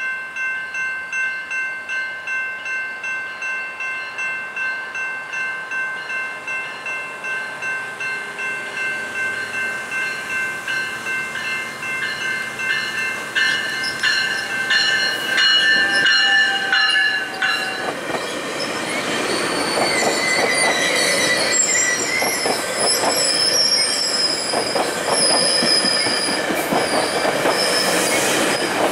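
Level-crossing bells ringing with a steady pulse as a GO Transit bilevel commuter train, cab car leading, pulls away from the station and rolls over the crossing. From about two-thirds of the way in, the passing coaches' wheels squeal and clack over the rails, louder than the bells.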